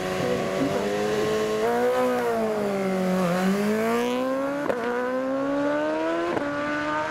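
Racing superbike engine under hard acceleration. Its pitch dips about three seconds in, then climbs steadily, broken by two quick gear changes about a second and a half apart near the end.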